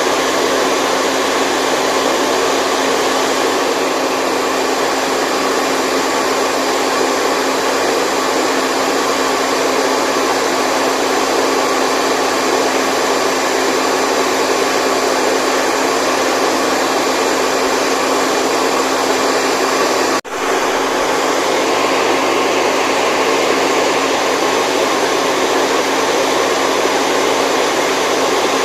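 Steady white noise for a baby's sleep: an even rushing hiss with a faint steady hum through it, broken once by a momentary dropout about twenty seconds in.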